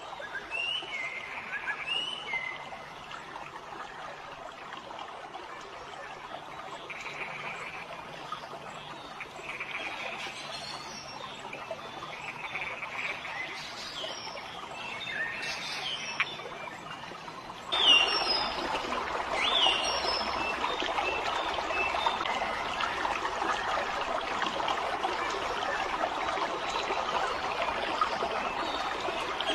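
Trickling, flowing water with birds calling over it in scattered short chirps that slide down in pitch. About 18 seconds in the water noise steps up and gets louder.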